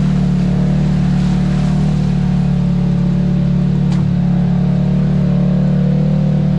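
Side-by-side UTV engine running steadily as it drives along a dirt trail, a constant low drone, with a single sharp click about four seconds in.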